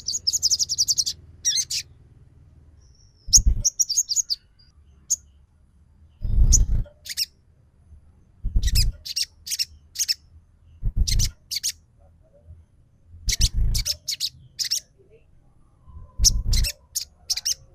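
Lure recording of a sogon bird calling: groups of high, sharp chirps and short trills every two to three seconds. Several of the call groups come with a dull low thump beneath them.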